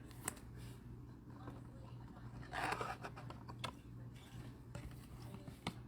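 Baseball trading cards being handled: faint slides and a few small clicks, with a brief rustle about two and a half seconds in, over a steady low hum.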